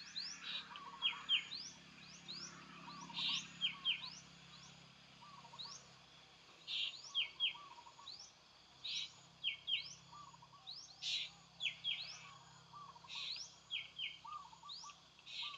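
A bird calling over and over: a short phrase of quick rising and falling high notes, repeated every one to two seconds, with softer lower chirps in between.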